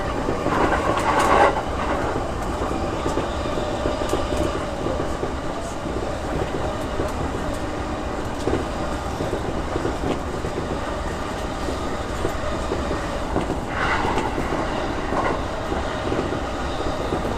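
JR E233 series 6000 electric train running between stations: a steady rumble of wheels on rail with the clack of rail joints, briefly louder about a second in and again near the end.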